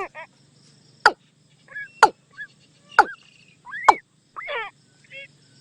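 Watercock calls, played as a decoy: sharp notes dropping in pitch about once a second, with shorter rising and curved notes between them.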